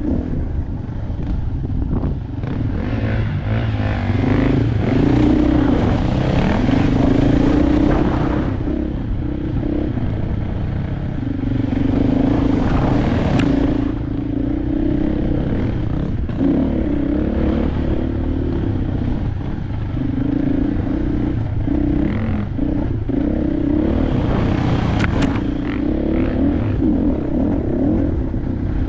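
KTM 500 dirt bike's single-cylinder four-stroke engine running under changing throttle while being ridden, its pitch rising and falling over and over. A rushing noise swells in three times, lasting a few seconds each.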